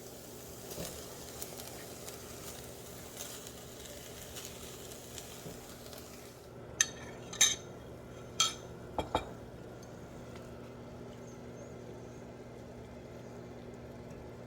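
Food sizzling in a skillet with light scrapes of a utensil; the sizzle cuts off about halfway through. Then five sharp clinks of metal cookware or utensils, followed by a steady low hum.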